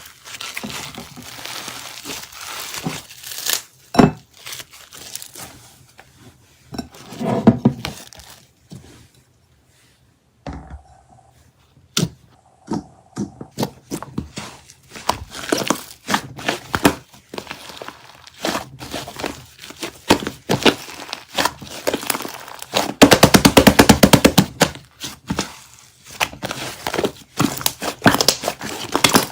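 Slime being squeezed, pressed and stretched by hand, giving sticky clicks, crinkling and crackling pops. About two-thirds through comes a louder, dense run of rapid popping.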